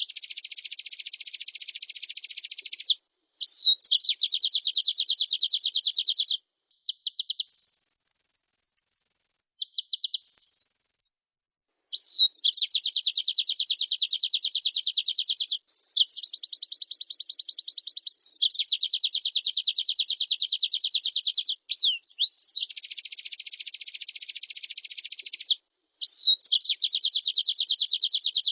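White-eye (pleci) in full song: long, fast, evenly trilled phrases of a few seconds each, separated by short pauses and quick swooping notes. Two shorter, very high-pitched buzzy bursts come about 8 and 10 seconds in.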